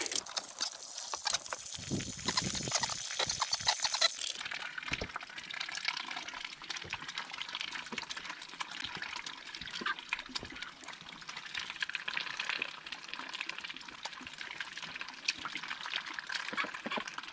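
Water from a hose pouring hard for about four seconds, then running more gently with trickling and splashing.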